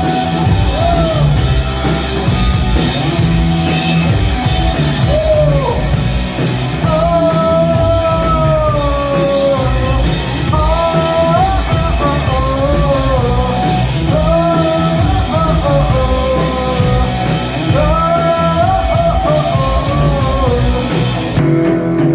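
Live rock band playing loudly, with a lead vocalist singing a melody over guitar, bass and drums. About a second before the end the sound cuts abruptly to duller-sounding music.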